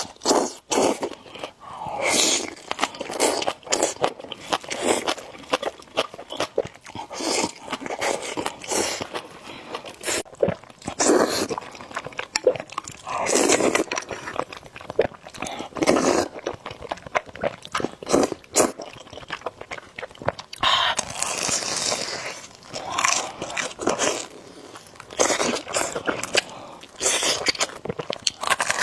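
Close-miked eating: noodles being slurped and chewed in irregular bursts, with wet mouth sounds and the odd crunch.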